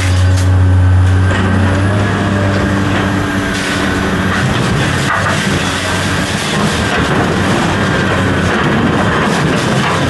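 Heavy diesel machinery running loudly, with continuous metal rattling and clatter; a steady engine hum drops away about a second and a half in.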